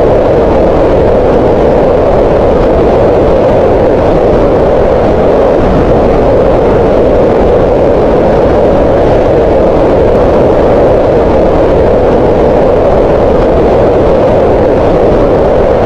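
Green noise: a steady, unbroken hiss with its energy concentrated in the middle of the range around 500 Hz, softer in the lows and dull in the highs.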